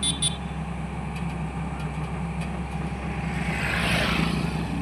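Tata excavator's diesel engine running steadily. Two short high clicks come right at the start, and a hiss swells and fades near the end.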